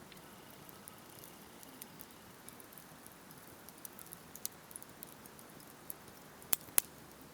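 Wood campfire burning with a soft hiss and scattered sharp crackles and pops, two louder pops close together near the end.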